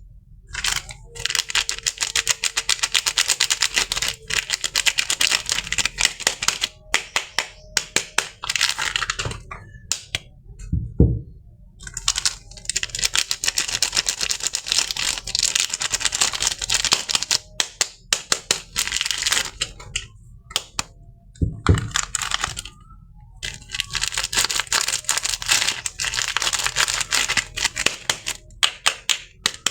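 Soap packaging being unwrapped by hand: crisp crackling and crinkling full of sharp clicks, in three long stretches with short pauses between them. A soft low thud comes twice, in the pauses.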